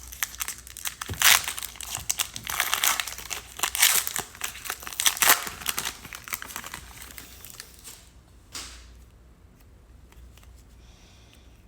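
Trading card pack wrappers being torn open and crinkled by hand, dense rustling and tearing that dies down after about eight seconds, with one last short rustle shortly after.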